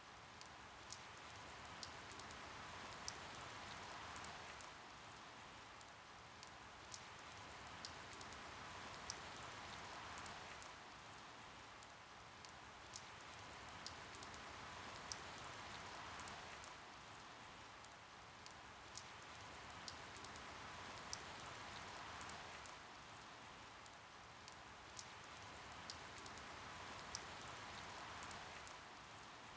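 Steady rain, swelling and easing about every six seconds, with single drops ticking sharply close by about once a second.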